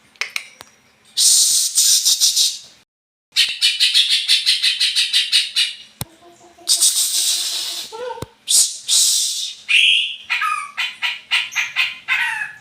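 Green leafbird (cucak ijo) singing an unusual song: long phrases of fast, harsh, high-pitched rattling trills, with a few short whistled notes about ten seconds in.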